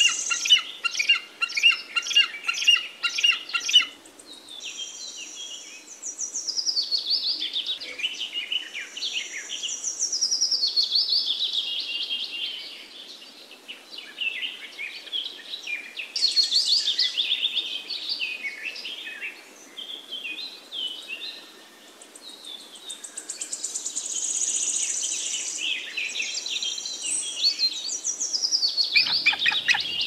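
Songbirds singing: a fast, even run of high chirps for the first four seconds, then repeated song phrases that fall in pitch, coming back every few seconds.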